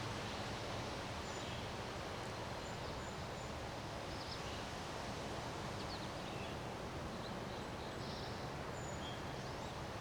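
Steady wind with leaves rustling, and faint short bird chirps here and there.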